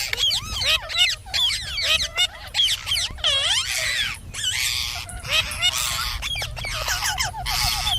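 Indian ringneck parrot chattering: a rapid, continuous run of warbling, whistle-like notes that swoop up and down in pitch, with a quick run of evenly repeated notes near the end.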